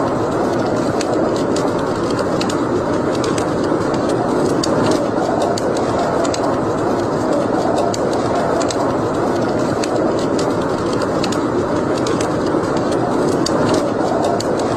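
Wood fire burning in a fireplace: a steady rushing noise from the flames, with many small irregular crackles and pops throughout.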